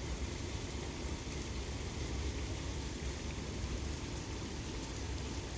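Steady rain falling during a thunderstorm: an even hiss with a low rumble underneath.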